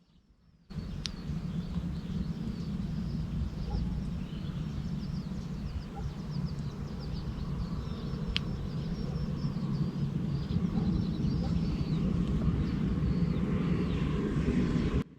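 Small birds chirping over a steady low rumble, which starts suddenly about a second in and cuts off abruptly near the end.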